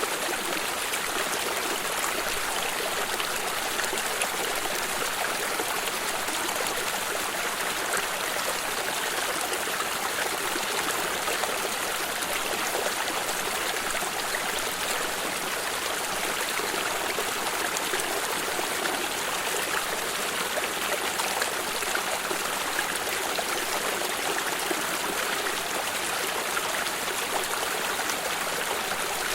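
A small stream running and trickling steadily over stones, a continuous even rush of water with fine splashes.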